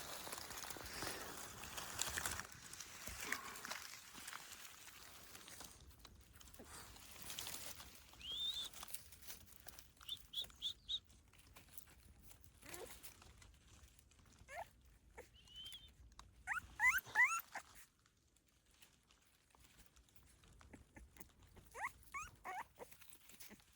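Young canines calling: a series of short, high-pitched whines and squeaks, some rising in pitch, coming singly and in quick clusters, the loudest cluster about seventeen seconds in. Rustling in the first few seconds.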